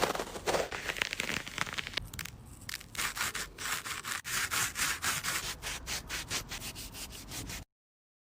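Rapid repeated rubbing strokes, many a second, that cut off suddenly near the end.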